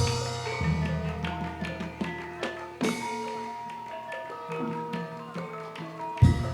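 Javanese gamelan playing an instrumental passage of a gending: struck bronze keys and gongs ringing in interlocking patterns over a drum, with a deep low stroke about six seconds in.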